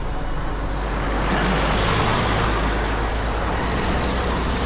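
Wind buffeting the microphones of a handlebar-mounted camera on a road bike in motion. A steady low rumble runs under a broad rush of noise that swells about a second in and then slowly eases.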